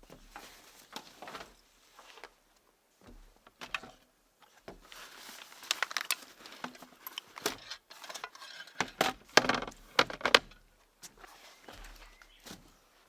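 Irregular clinks, taps and rustling of small objects being handled, loudest about nine to ten seconds in.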